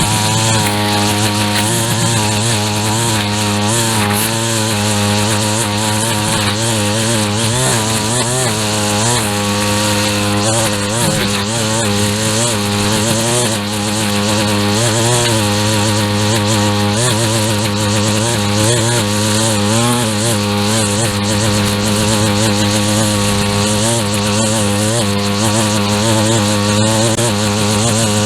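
Gas two-stroke string trimmer running at high throttle, its pitch wavering slightly as it cuts through grass and weeds.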